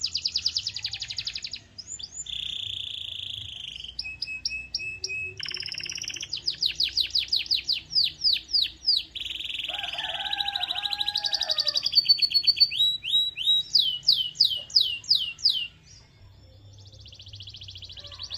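Domestic canary singing a long, loud song built of fast-repeated phrases: rapid trills, runs of sharp downward-sweeping notes at several a second, and a steady buzzing roll. The song breaks off briefly near the end, then starts again.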